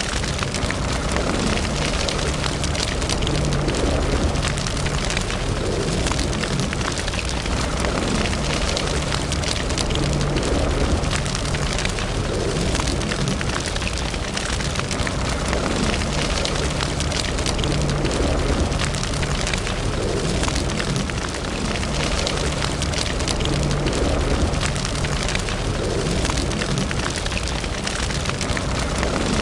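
Fire burning in a fireplace, crackling steadily with frequent small pops over a low rumble of flames.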